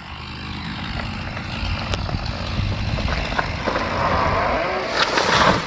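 Four-wheel-drive truck engine running under load as it hauls on a rope tied to the top of a large dead gum tree. Near the end the tree gives way and comes down with a loud rushing crash.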